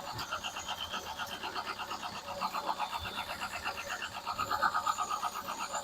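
Ford 2.0 Pinto single-overhead-cam four-cylinder engine idling with a steady, even pulse while its ignition timing is being set.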